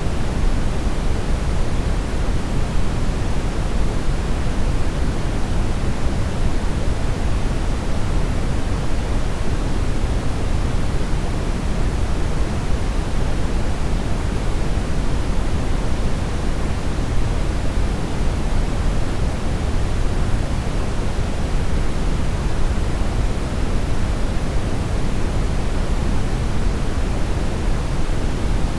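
Steady brown noise: an even, deep hiss weighted toward the bass, with no tones or events.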